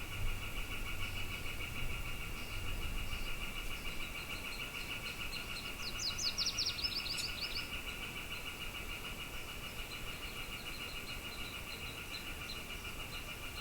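Dawn bird ambience: a steady, rapidly pulsing high trill runs on throughout. About six seconds in, a bird gives a quick run of falling notes. A faint tick repeats at intervals, and low wind rumble sits under the first few seconds.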